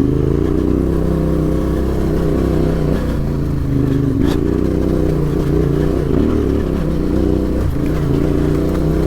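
Adventure motorcycle engine running steadily under light throttle while riding an off-road track, its pitch wavering only slightly. There is a single short knock about four seconds in.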